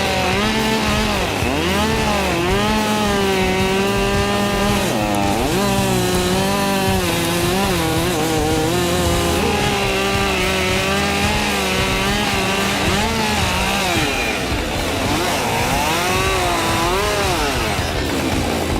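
Chainsaw engine running at high revs while cutting wood. Its pitch sags under load and climbs back several times.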